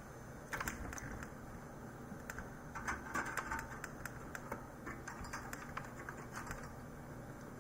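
Irregular light clicks and taps from hands handling computer hardware, densest from about three to four and a half seconds in, over a low steady hum.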